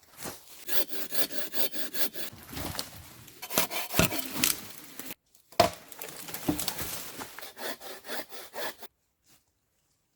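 Hand saw cutting through wood in quick back-and-forth strokes, about four a second, with a couple of sharper knocks; it cuts off abruptly midway and starts again.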